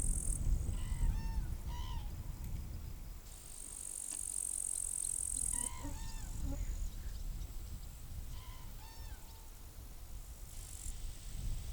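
Meadow insects buzzing in high, hissy bouts of a couple of seconds each. Between them a bird repeats the same short song phrase three times, over a low rumble of wind on the microphone.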